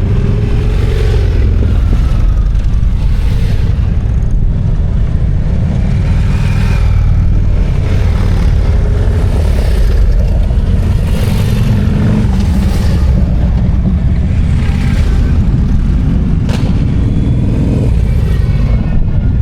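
Motorcycle engine running steadily on the road, loud and constant.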